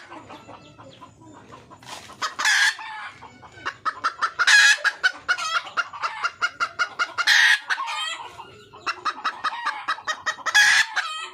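Wild junglefowl hen calling: rapid runs of clucks broken every two to three seconds by a loud, short cackling call. It is a hen's call to attract a male.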